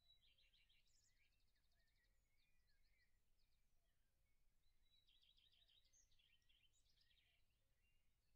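Near silence with faint songbirds singing: high chirps and rapid trills, busiest in the first second and again from about two-thirds of the way through.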